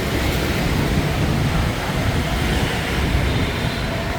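Steady noise of dense street traffic, mostly motorbikes, mixed with wind rumbling on the microphone.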